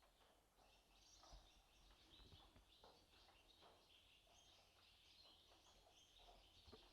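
Near silence: faint outdoor ambience with scattered faint, high chirping.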